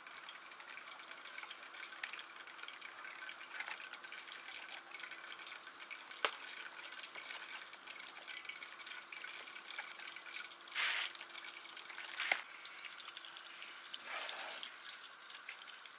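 Faint wet squelching and dripping as crucian carp are mixed by hand in liquid fish seasoning, over a steady low hiss, with a few short louder wet sounds in the second half.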